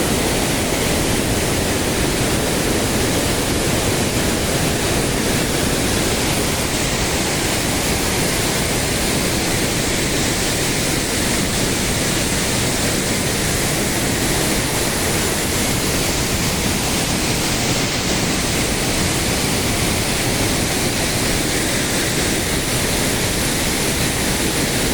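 Waterfall rushing close by: a loud, steady, unbroken wash of falling water.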